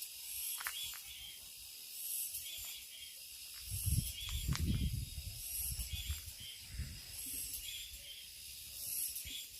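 Grass cicadas singing in a high, steady hiss that swells in repeated pulses. A low rumble comes in about four seconds in and lasts a few seconds.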